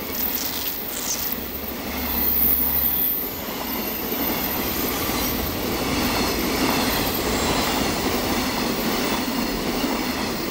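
Long container freight train rolling past at speed: a steady rumble of steel wheels on the rails, with a brief high wheel squeal about a second in.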